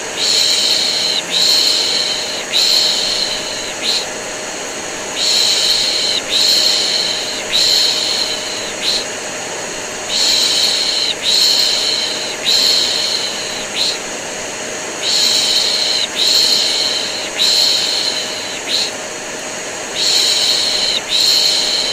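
Looped baby-soothing shushing ('piş piş'), in groups of about three long shushes every five seconds, over the steady hum and rush of a running vacuum cleaner used as white noise.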